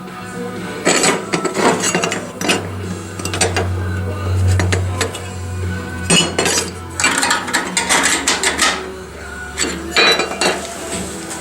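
Irregular metal clanking and knocking, as of tools on sheet steel during body repair, coming in clusters a second or two apart over a steady low hum.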